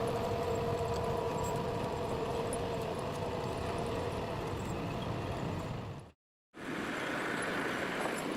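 Heavy forestry machine's engine running steadily with a held hum, then a sudden half-second gap about six seconds in, after which a different steady machine sound continues.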